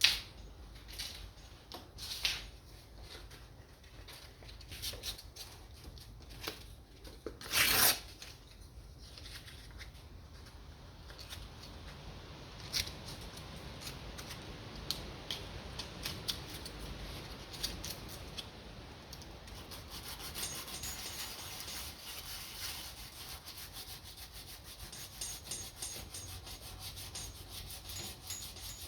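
Hand scraping or sanding strokes on a guitar's finish, as in finish repair. There are scattered short clicks and a louder scrape about eight seconds in, then from about twenty seconds in a fast, steady run of short rubbing strokes.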